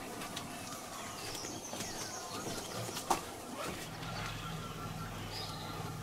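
Outdoor natural ambience of the forest clearing: birds calling faintly over a steady background hiss. A single sharp click comes about three seconds in, and a low steady hum sets in from about four seconds on.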